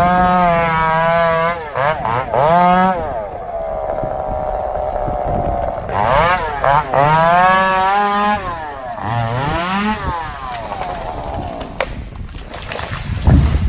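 Two-stroke chainsaw running in timber, revving up and down repeatedly and holding a steadier pitch for a few seconds near the start; a deep thud near the end.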